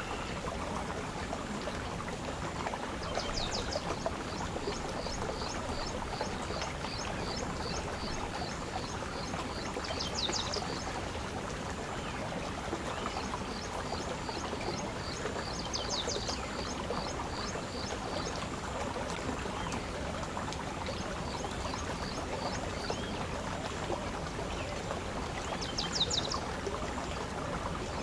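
Small songbird calling a long run of short, high chirps, about three a second, broken off and resumed several times, with a few louder chirp bursts. Behind it a steady rush of flowing water.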